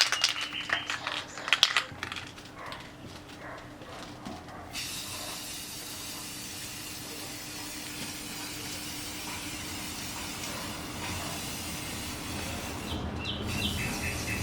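A few sharp clicks and knocks, then about five seconds in a steady spraying hiss starts and keeps going.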